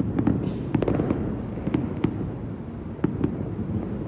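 Fireworks going off across the city at a distance: many sharp cracks at irregular intervals over a continuous low rumble of overlapping bursts.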